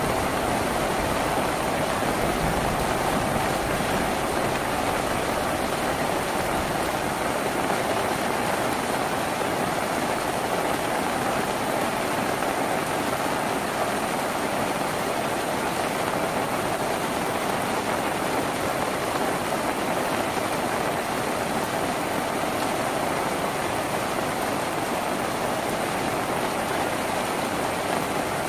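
Steady rain drumming on a tin roof, an even, dense patter.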